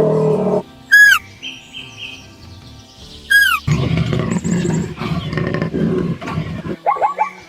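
A run of animal calls: two sharp, high calls that fall in pitch, about two and a half seconds apart, then a low, rough, pulsing call lasting about three seconds. Near the end a rapid series of short calls begins.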